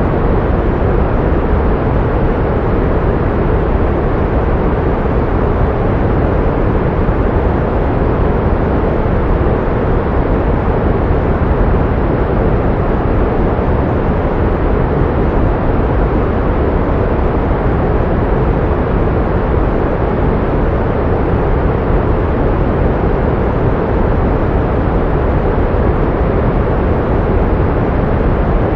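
Pink noise: a loud, perfectly steady hiss, heavier in the bass and softer toward the treble, with no change or event in it.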